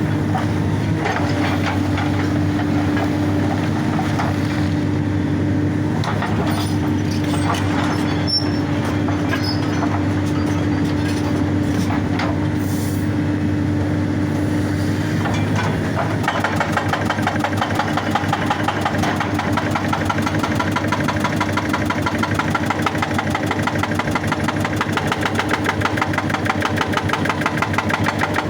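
Excavator diesel engine running, then a little over halfway through the hydraulic rock breaker starts hammering in a rapid, even rhythm.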